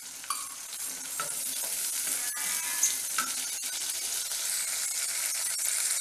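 Shallots, garlic and tomato sizzling in hot oil in a stainless steel kadai, with a wooden spatula stirring and knocking against the pan in scattered clicks.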